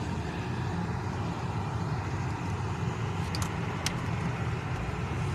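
Car running with a steady low rumble, and a few short clicks about three and a half seconds in.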